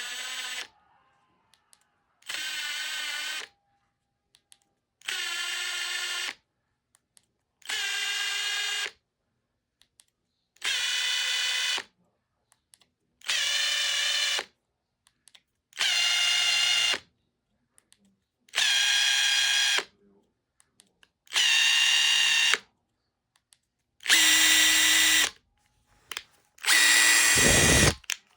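Makita TP141D cordless impact driver's motor whining in short trigger pulls, about eleven of them spaced roughly evenly, each run a little louder than the one before; the tool has been overhauled and is being run as a working check.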